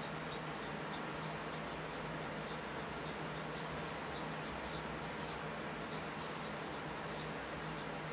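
Small birds chirping in short, quick, high notes: a few about a second in, then a run from about three and a half seconds on that grows busier near the end, over a steady background hiss with a low hum.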